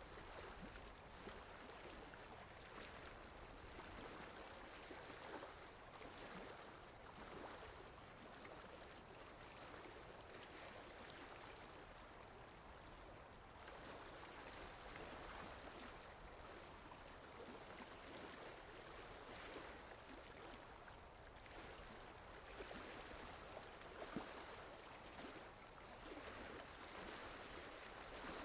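Steady rain falling, a soft even hiss with scattered drop ticks and one sharper drip near the end.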